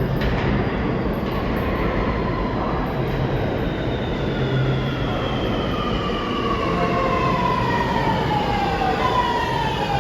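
Subway train running through the station with a heavy rumble. From about a third of the way in, a whine of several tones falls steadily in pitch, as the train's propulsion slows it down.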